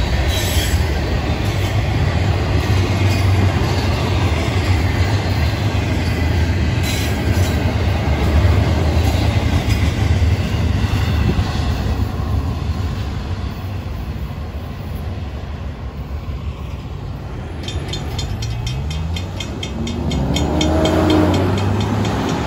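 Freight train's cars rolling past a grade crossing with a steady rumble that fades as the last intermodal cars go by. Near the end a rapid high ticking starts, and a truck engine revs up, rising in pitch, as it pulls across the tracks.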